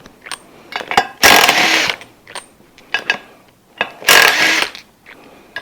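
Impact gun firing in two short bursts of about half a second each, hammering fasteners on the engine. Light clicks and knocks of tool handling fall between the bursts.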